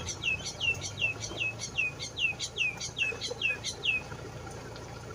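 A bird calling a rapid series of short, falling whistled notes, about five a second, that stops about four seconds in.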